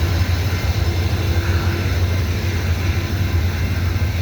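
GE Evolution-series diesel locomotives working hard at a crawl up a grade, a steady low engine drone. They are struggling because one unit in the consist is offline.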